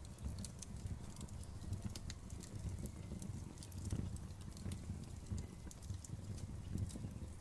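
Campfire burning, with frequent irregular crackles and snaps from the wood over a low steady rumble.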